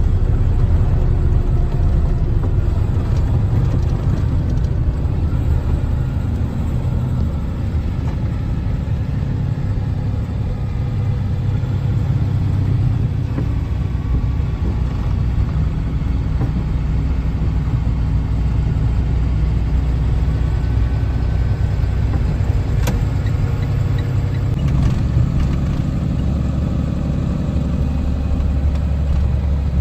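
Box truck engine running with a steady low rumble, and a single sharp click about three-quarters of the way through.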